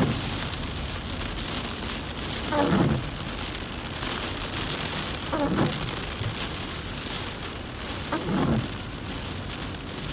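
Heavy rain hitting a moving car's windshield and roof, with a short swish from the windshield wipers about every three seconds.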